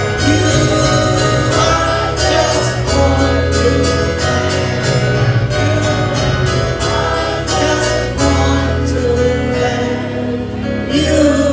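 Live gospel praise-and-worship music with a steady beat: band with guitar, strong bass and drums, and singing.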